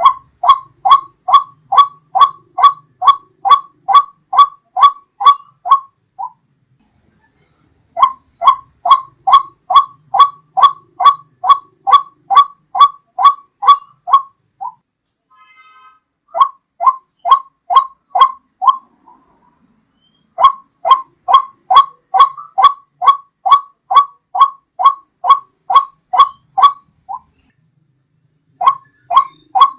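White-breasted waterhen (ruak-ruak) call played as a bird-lure recording: loud, evenly repeated short notes, about two a second, in runs of several seconds broken by short pauses.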